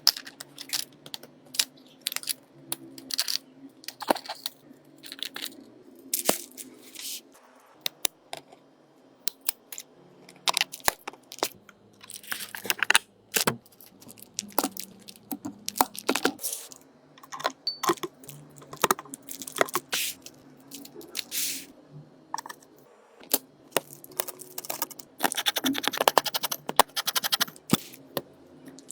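Irregular clicks, taps and short scrapes of small tools handling a cracked Samsung Galaxy Note 10 Plus during repair, with a longer continuous scraping stretch near the end.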